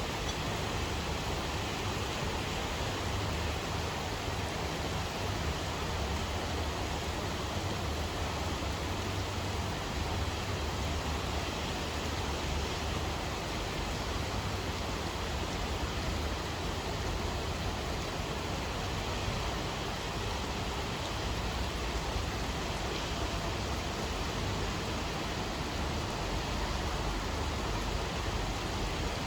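Steady, even rain, a continuous hiss with no distinct drops or thunder.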